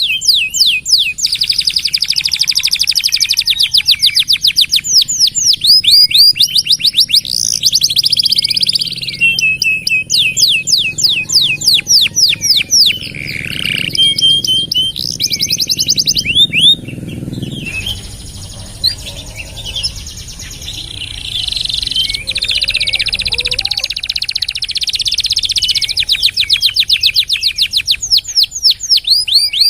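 Domestic canary singing a long, unbroken song of rapid high-pitched trills and rolls, each run made of many fast repeated notes. The song softens and thins out briefly past the middle, then picks up again.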